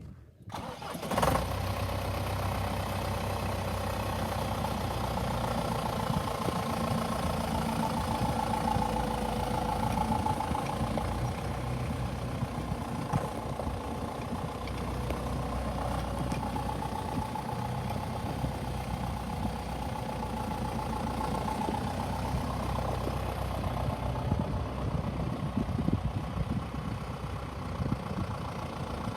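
John Deere 6420 tractor's diesel engine starting, catching about a second in, then idling steadily.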